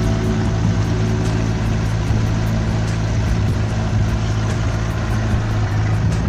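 Engine of a 1960 Freeman 22 motor cruiser running at a steady speed under way: a constant low hum under an even rushing noise.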